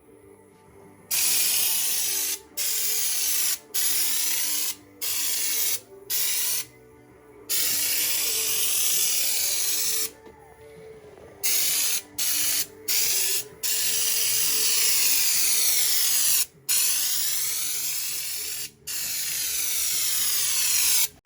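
Compressed-air bed liner spray gun spraying coating, a loud hiss that starts and stops as the trigger is pulled and released: a run of short bursts, then longer passes of several seconds each.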